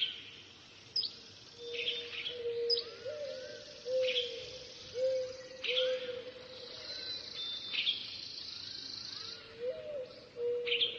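Birds calling: repeated sharp, high, falling chirps together with a series of low, arched hooting notes about once a second. A faint steady hum runs underneath, and a high hiss comes in for a few seconds past the middle.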